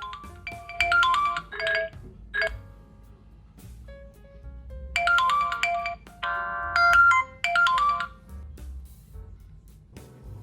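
Smartphone ringtone: a bright melodic tune of clear pitched notes, played in two phrases a few seconds apart.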